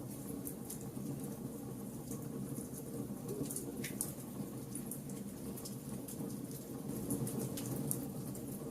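Wood fire burning: a low steady rush of flames under irregular sharp crackles and pops from the burning wood, with one clearer pop about four seconds in.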